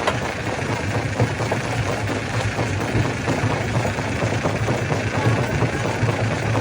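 Stone crusher running steadily: a low machine hum under a dense, continuous clatter of many small impacts as rock is broken.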